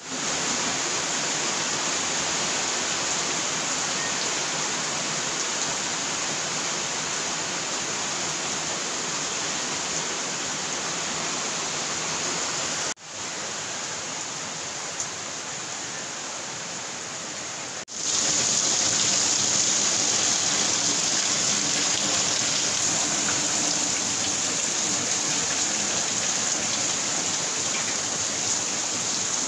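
Heavy downpour: steady rain falling on leaves, paving and standing water. It breaks off briefly twice, about 13 and 18 seconds in, and is loudest in the last stretch, rain splashing on flooded paving.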